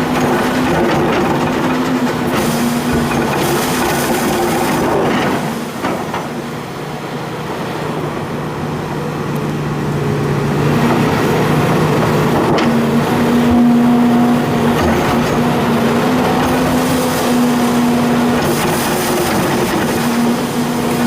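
Hitachi hydraulic excavator's diesel engine running under working load, with several steady tones at once. It eases off briefly about six seconds in, then builds back up and holds.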